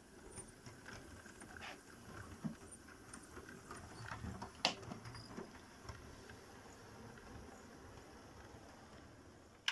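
Small model railway locomotive running slowly over newly laid track, a faint low motor rumble with light, irregular clicks of the wheels over rail joints and pointwork, one sharper click a little under halfway through.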